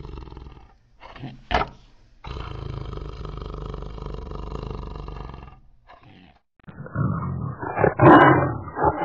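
Tiger calling: a long, steady low rumble that breaks off just under a second in, a brief sharp sound, then a second long rumble. From about seven seconds in come louder, rough, broken roaring calls.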